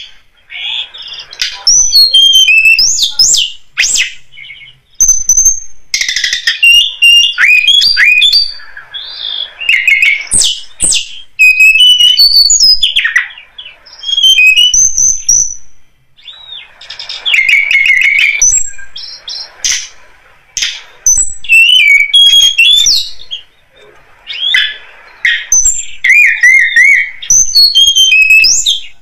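Tledekan gunung lure recording: loud bursts of quick, high chirps and twittering song phrases, a few seconds each, with short pauses between them.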